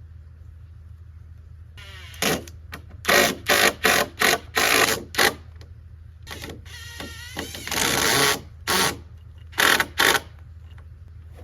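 Power drill running in a rapid series of short trigger bursts, about fifteen in all, the motor pitch rising and falling within some of them, as it drills into or drives screws through timber.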